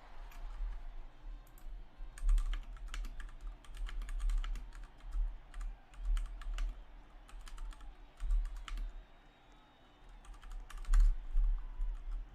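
Typing on a computer keyboard: runs of quick key clicks in bursts, with a short lull about nine seconds in.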